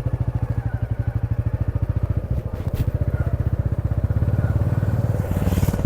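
Royal Enfield Classic 350's single-cylinder engine running under way, its exhaust beating in a steady, even rhythm. Two short clicks come about two and a half seconds in, and a brief hiss near the end.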